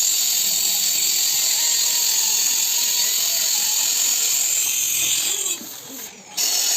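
Electric drywall sander running with a steady high-pitched motor whine and sanding hiss. It cuts out sharply about five and a half seconds in and comes back at full level just under a second later.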